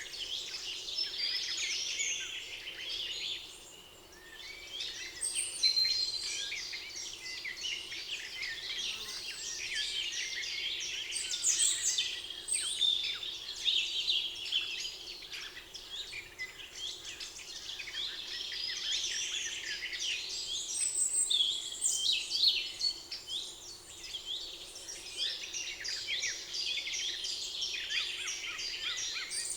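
Many songbirds singing and chirping over one another in a dense forest chorus, thinning briefly about four seconds in.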